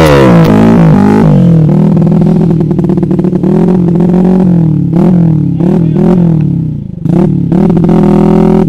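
Off-road trail motorcycle engine revved up and down over and over as it is ridden, its pitch dropping and climbing repeatedly. Sharp clattering knocks come in the second half.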